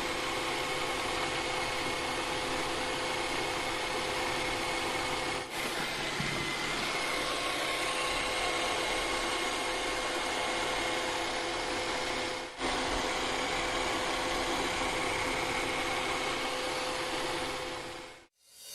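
Steady machine noise with a few steady tones running through it, as from a motor running. It breaks off for a moment twice and fades out near the end.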